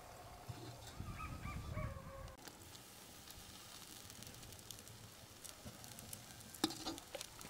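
Faint outdoor ambience with a few short bird chirps in the first two seconds, then faint scattered clicks with one sharper click near the end.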